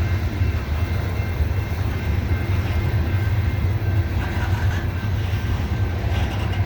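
Loaded coal train crawling up a grade under heavy load: a steady, deep rumble that does not let up.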